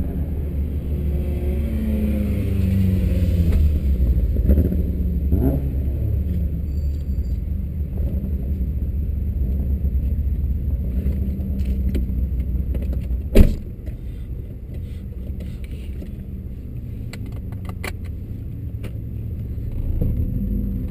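BMW M52B28 straight-six idling steadily, with a short rise and fall in revs about five seconds in. A car door slams shut about thirteen seconds in, and after that the engine sounds quieter, heard from inside the closed cabin.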